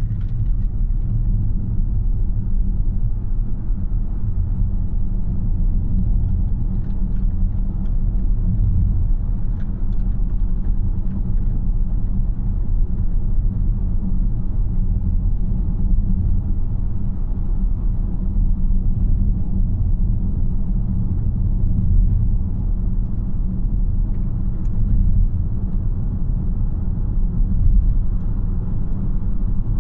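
Cabin noise of a 2026 Tesla Model Y AWD on the move: a steady low rumble of road and tyre noise, with no engine note because the car is electric.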